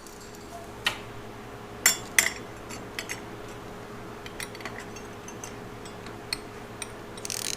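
Hand tools clinking against metal: a socket on extensions knocks and clicks several times at irregular intervals while working at the starter bolts. A steady low hum runs underneath.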